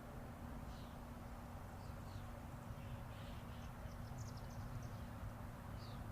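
Small songbirds chirping, with scattered short high calls and a quick run of very high notes a little past the middle, over the steady low rumble of distant interstate highway traffic.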